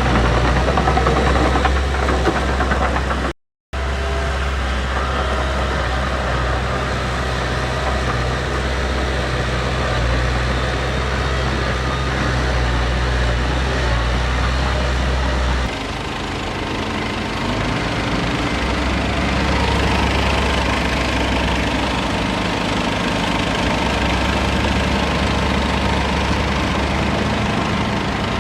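Diesel engines of heavy earthmoving machines, a bulldozer and dump trucks, running steadily with a deep low drone. The sound cuts out for a moment a few seconds in. The engine note changes abruptly about halfway through.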